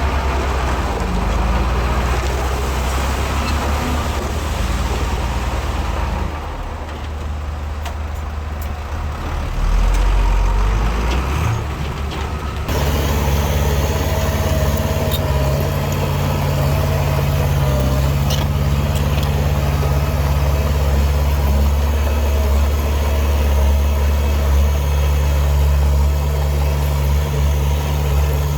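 Heavy earth-moving machinery running: a steady low diesel engine drone. The sound dips for a few seconds, then changes abruptly about halfway through to a fuller, steadier engine note.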